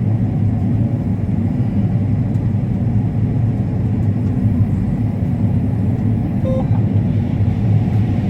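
Combine harvester running steadily with a constant low engine drone while harvesting corn.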